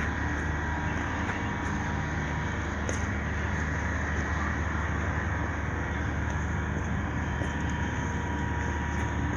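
Steady low drone of a ship's diesel engine running at constant speed, with a faint even hum over a wash of background noise and a few small ticks.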